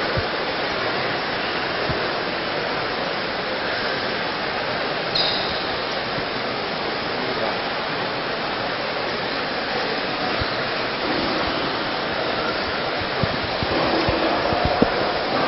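Steady, dense background din of a crowded space with indistinct voices mixed in. A brief high tone sounds about five seconds in, and there are a few low knocks near the end.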